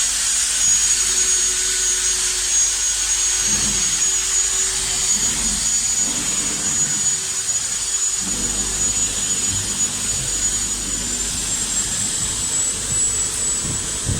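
A power tool running continuously: a steady hiss with a high-pitched whine that rises slightly in pitch about eleven seconds in.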